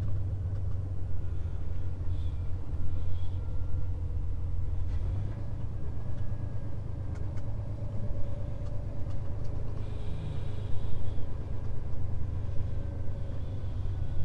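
Scania S500 truck's engine running at low speed, heard from inside the cab as a steady low rumble.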